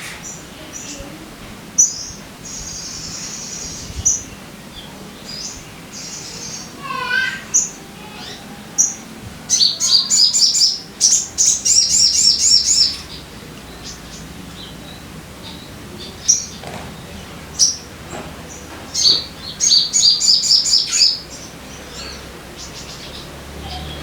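Sunbird (sogon) song used as a lure call: high, thin chirps in short phrases, broken by two runs of rapid trilling, about ten seconds in and again about twenty seconds in.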